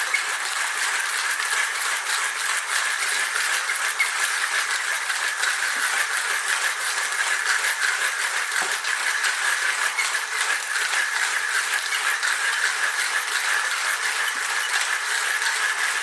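1Zpresso J-Max hand coffee grinder being cranked, its burrs crunching coffee beans in a steady, dense rattle that stops abruptly near the end.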